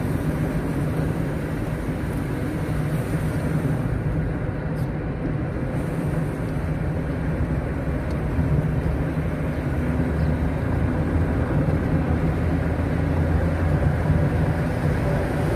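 A vehicle driving along: steady engine hum and road noise, the low rumble growing a little stronger in the second half.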